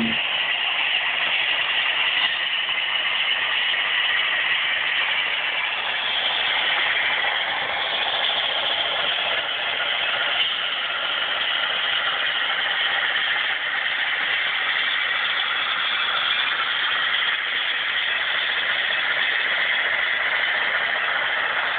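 HO-scale Broadway Limited Baldwin Centipede model diesel locomotive running on the layout: a steady, even engine-like running sound that does not change.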